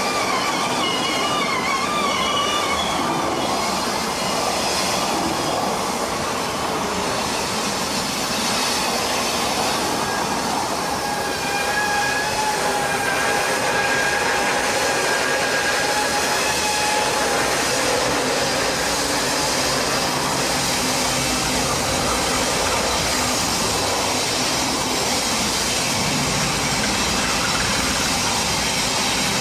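Freight train rolling through a curve, its wheels squealing in high tones that waver at first and then hold steady for several seconds in the middle. Under the steady rumble of the cars, the diesel engines of GE AC4400 locomotives grow louder near the end as the units pass close by.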